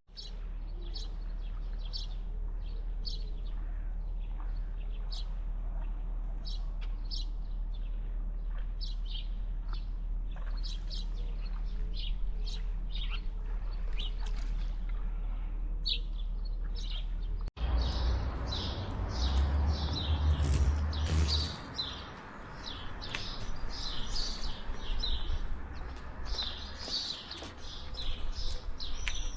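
Small birds chirping in quick, repeated short calls. About two-thirds of the way through, the sound cuts abruptly, and a louder low rumble and more background noise come in under the chirping.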